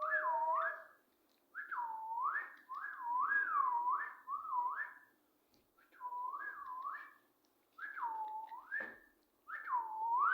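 A parrot whistling a short repeated phrase, about seven times, each a clear tone that swoops down and back up, with brief pauses between.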